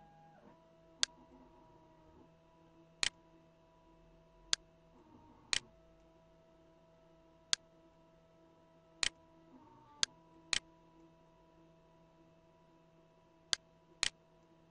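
Computer mouse button clicking: about ten sharp single clicks at irregular intervals, some in quick pairs, over a faint steady electrical hum.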